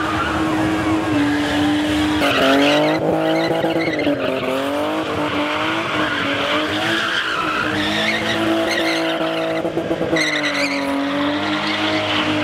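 Engine of a BMW E30 spinning car held at high revs while the rear tyres spin and skid, the revs sagging and climbing again several times.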